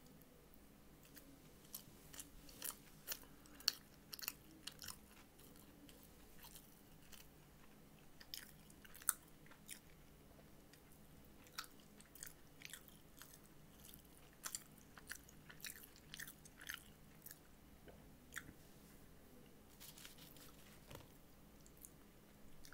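A person chewing a fried chicken sandwich close to the microphone: a scatter of soft, irregular mouth clicks and crunches, thickest in the first half and again near the end.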